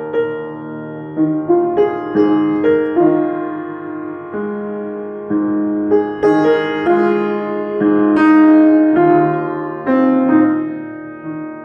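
Solo piano played freely, unaccompanied: groups of notes and chords struck and left to ring, swelling about two-thirds of the way through and softening near the end.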